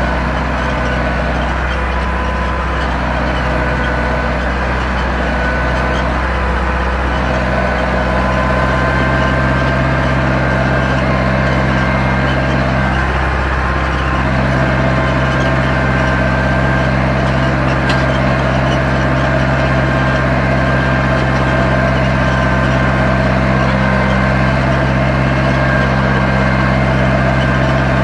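Zetor 7245 tractor's four-cylinder diesel engine running steadily at constant speed while ploughing.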